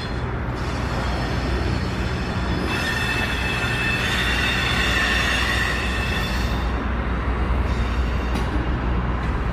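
Freight train rolling past with a steady low rumble of wheels on rail, and high squeal tones that come and go as the wheel flanges rub against the rail on a curve, loudest from about three to six seconds in.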